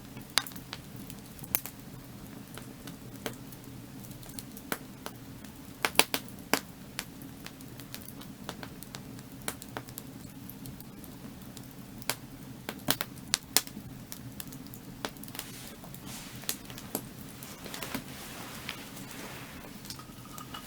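Burning firewood crackling, with irregular sharp pops and snaps, some much louder than others, over a steady low background rush.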